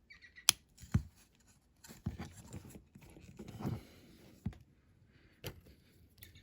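Plastic interior and base of a 1:64 die-cast model car clicking and scraping against the metal casting as they are pushed back into place. There are a few sharp clicks, with quieter rubbing between them.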